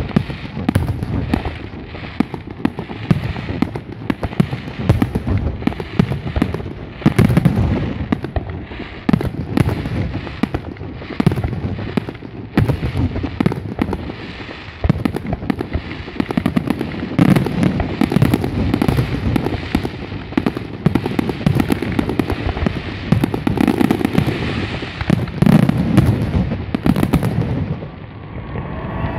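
Aerial fireworks display: a rapid, continuous run of shell bursts, sharp bangs overlapping with deeper booms, with no real gap between explosions.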